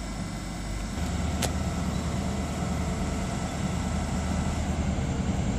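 Diesel train engine running with a steady low hum that grows louder about a second in. A single sharp click comes about a second and a half in.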